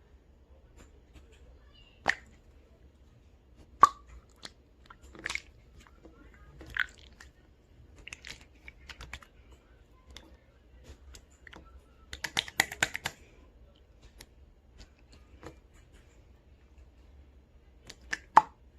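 Mixed slime being squished and pressed by hand, giving wet, sticky pops and crackles at irregular intervals, with a quick run of crackling about two-thirds of the way through.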